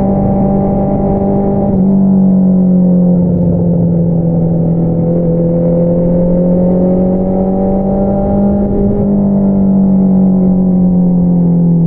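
Honda CBR650R inline-four engine running through an Akrapovič single-outlet exhaust at steady cruising revs. The note shifts slightly about two seconds in, rises slowly through the middle, then drops as the throttle eases near the end.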